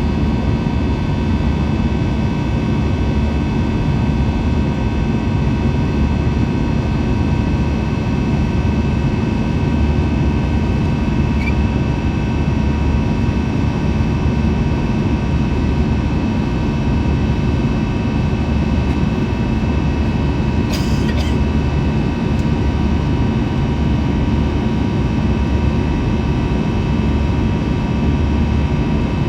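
Steady jet airliner cabin noise inside an Airbus A321: a constant low rumble of engines and rushing air with several steady whining tones over it. A brief click about eleven seconds in and a short rattle around twenty-one seconds.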